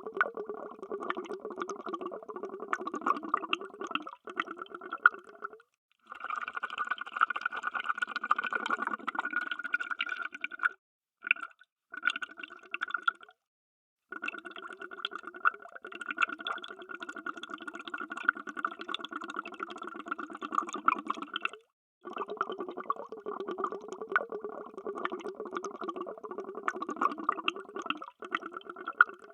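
Underwater bubbles: a dense stream of bubbling, broken by a few short silent gaps, around 6, 11, 14 and 22 seconds in.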